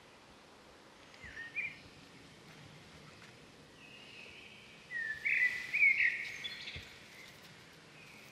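Birds calling in short whistled glides, once about a second in and then a louder run of calls between about five and six and a half seconds, over steady outdoor background noise.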